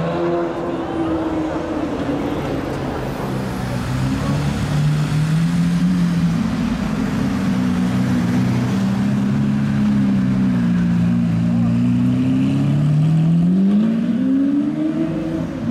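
Supercar engine running under changing throttle, its pitch sinking at the start, wavering up and down, then climbing steeply near the end as it revs before dropping back.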